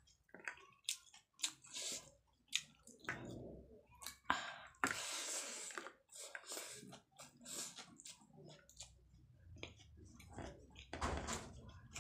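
Close-up eating sounds: a person chewing with wet mouth clicks and smacks, eating rice and curry by hand. A longer noisy stretch comes about five seconds in.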